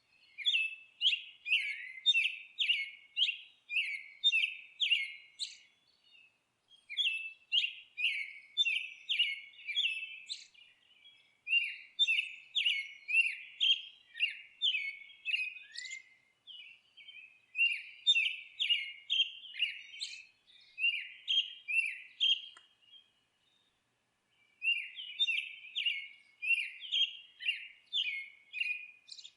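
A bird chirping over and over in quick runs of short, high notes, about two a second, broken by a few brief pauses.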